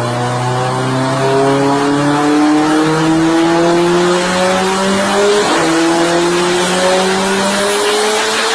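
Car engine accelerating hard, its pitch climbing steadily, with a brief dip in pitch about five and a half seconds in, like a gear change. Road and tyre noise runs underneath.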